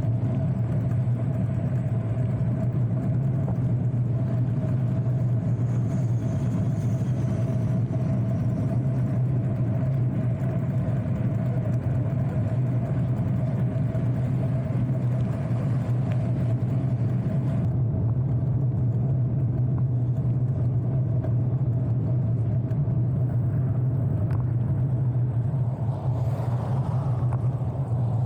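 Steady low rumble with a faint constant hum, unchanging throughout: the running noise of a bicycle ride along a road.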